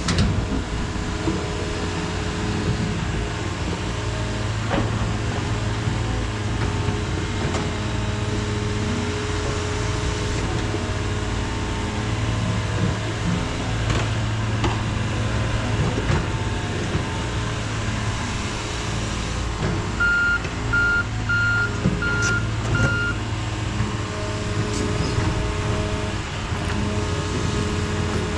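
Heavy diesel equipment running steadily under load, with a backup alarm beeping five times about twenty seconds in.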